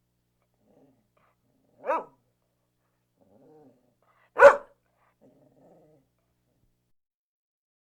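A dog barking twice, about two and a half seconds apart, the second bark louder, with faint low growling between and after the barks.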